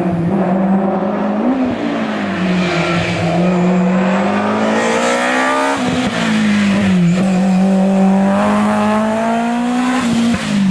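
Rally car engine running at high revs under hard acceleration. Its note climbs steadily in each gear, with sharp gear changes about a second and a half in, about six seconds in, and again about seven seconds in.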